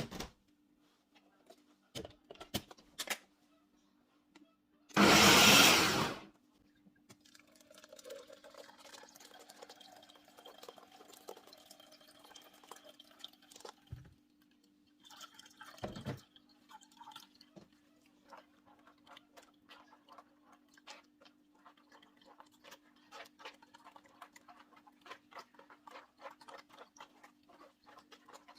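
Kitchen preparation sounds with water and handling. A single loud rushing burst comes about five seconds in, followed by scattered light clicks and knocks over a steady low hum.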